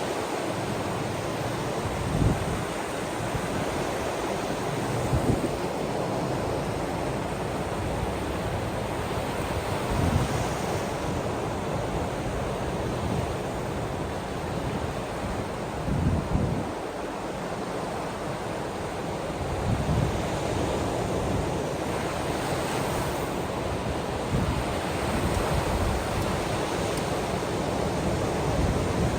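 Ocean waves washing on the shore in a steady rush, with wind buffeting the microphone in short low gusts every few seconds.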